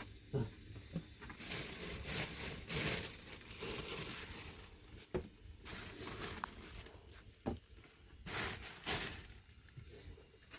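Irregular rustling and crinkling handling noise in a few swells, with several sharp knocks between them.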